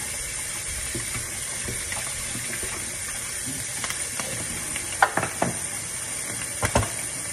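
Shrimp frying in a hot pan: a steady sizzle, with a few short knocks and clatters about five seconds in and again shortly before the end.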